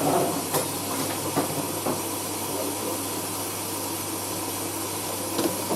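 Hoover AAA160 Whisper 1600 washing machine filling at the start of its cycle: a steady hiss of water rushing in through the inlet valve, over a low hum, with a few faint clicks.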